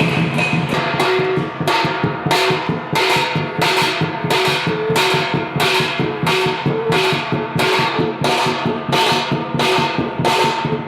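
Traditional Chinese show percussion: drum and cymbals struck in a steady beat of about two strokes a second, with metallic ringing carrying between strokes.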